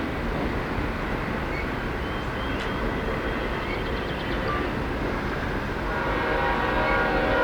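A train rolling past with a steady rumble. About six seconds in, a locomotive air horn starts sounding a steady chord over it.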